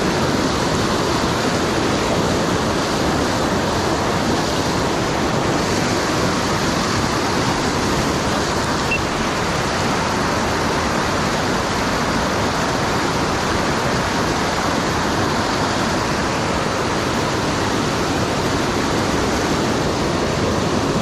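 Steady rushing of fast river water in a rapid, a continuous even noise with no breaks.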